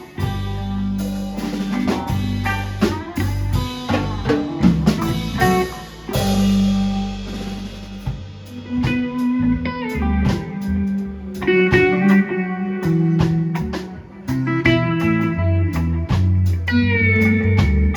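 Live band playing an instrumental break: electric guitar lead over bass guitar and drum kit, with a bent guitar note near the end.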